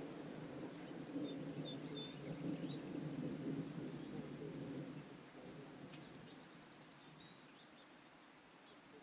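Rolling thunder rumbling low and fading away over the first five seconds, with birds chirping and giving a short rapid trill.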